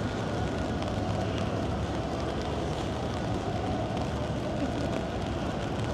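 Steady city traffic noise: a continuous low hum and rumble of vehicles, with no single event standing out.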